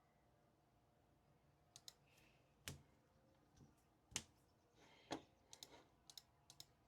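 Sharp clicks and taps at a desk in a quiet room: three louder ones about a second apart in the middle, then a quick run of lighter clicks near the end.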